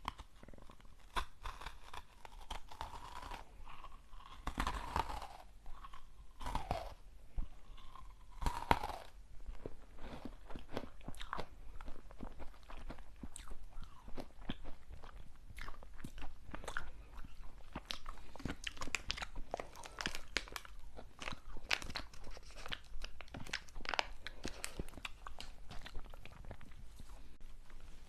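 Close-miked ASMR eating: a steady run of crisp crunching and chewing on hard, brittle snacks such as dalgona candy, with a few short falling squeaks in the first nine seconds.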